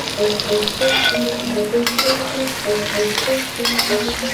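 Shallots, garlic and chillies sizzling in hot oil in a steel wok as tomato halves are tipped in and stirred, with a metal spatula scraping against the wok now and then. A soft background melody plays underneath.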